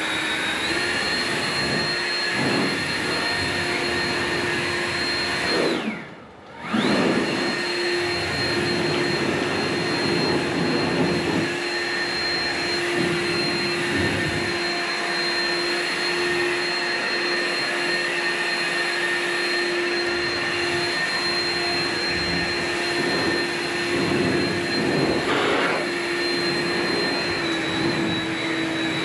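Blower running steadily to blow dust out of a shop. It cuts out for a moment about six seconds in and then picks up again.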